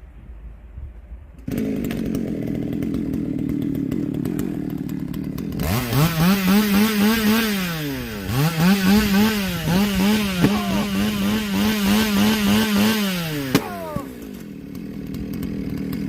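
Small two-stroke chainsaw engine running steadily, then revved up to high speed, dropping back once about eight seconds in and revving up again before falling back to idle near the end.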